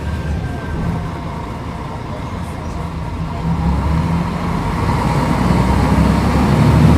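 Mercedes-Benz O500UDA articulated bus engine running and pulling, growing louder from about halfway through as it accelerates, with a faint steady whine above it.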